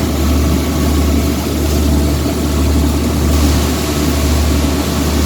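A boat's engine running steadily with a low drone that swells and eases slightly.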